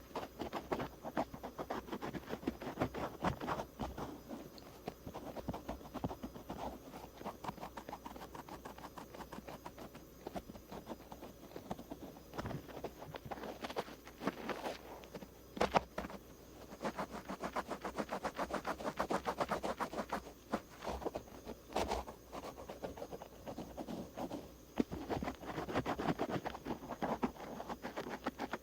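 Cotton swabs rubbing and scratching over the outer ear in quick, close strokes, with a few sharper taps along the way.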